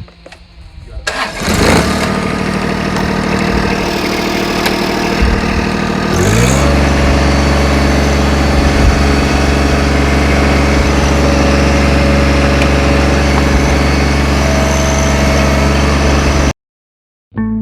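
An engine starts with a burst about a second in and runs steadily, then speeds up about six seconds in and holds at the higher speed. It cuts off suddenly near the end.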